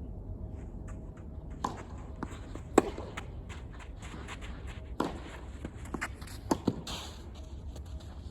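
Tennis ball strikes and bounces during play: a few sharp pops one to two seconds apart, the loudest about three seconds in, with a quick pair near the end, and fainter shoe scuffs on the court between.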